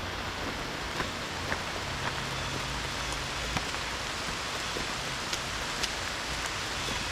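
Steady rain falling through the woods: an even hiss with scattered single drops striking close by.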